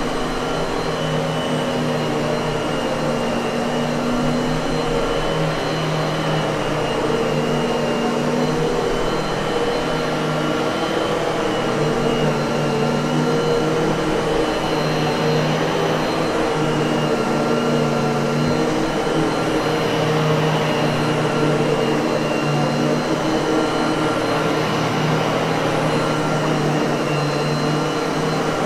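Miele vacuum cleaner motor running steadily, a continuous whooshing hum with steady whining tones.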